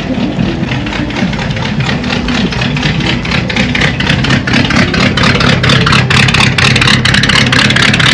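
Car engine running at low speed, idling and creeping along, with a dense run of sharp crackles building up through the second half.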